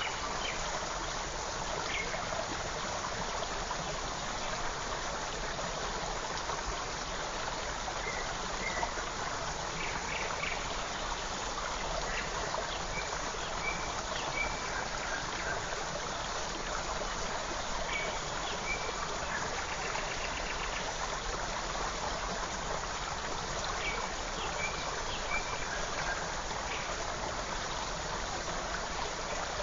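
Small forest creek flowing and trickling steadily, with a few faint, short bird calls scattered over it.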